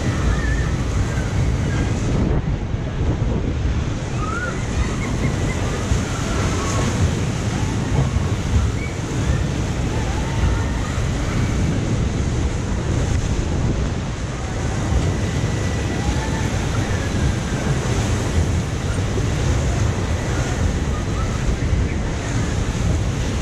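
Wind buffeting the microphone over the steady rush and splash of water as a jet-ski boat rides through its water channel, with faint distant voices.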